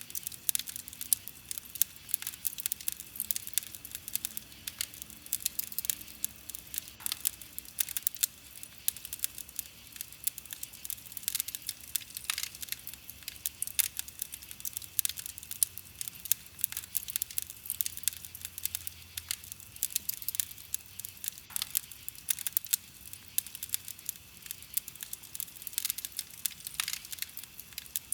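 Wood fire burning, with a dense run of small snapping crackles and a few louder pops scattered through it.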